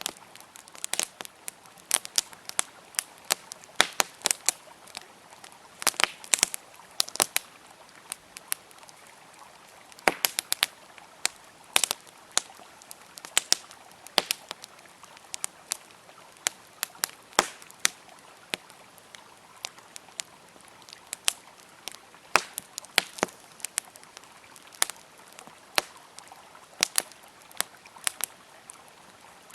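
Wood fire crackling and popping in irregular sharp snaps, several a second at times, over the steady rush of a flowing river.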